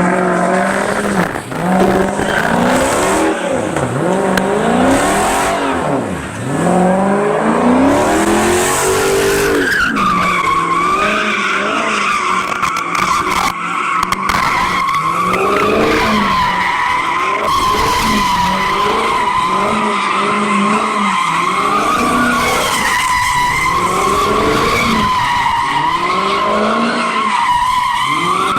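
A car drifting: its engine revs up and down hard for the first several seconds, then the tyres break into a long steady squeal from about ten seconds in, with the engine still revving up and down underneath.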